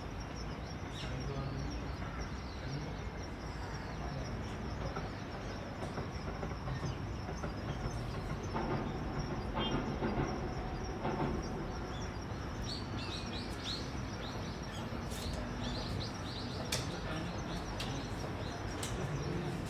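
Train running on the rails with a steady rumble and a few sharp clicks. A bird chirps several times in quick succession about two-thirds of the way through.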